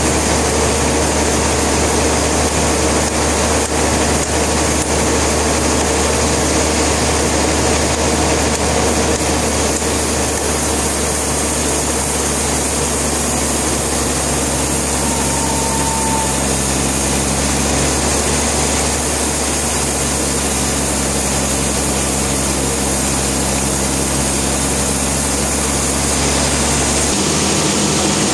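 Sawmill machinery running steadily: a loud, continuous engine hum under a wash of mechanical noise. The low hum shifts in pitch near the end.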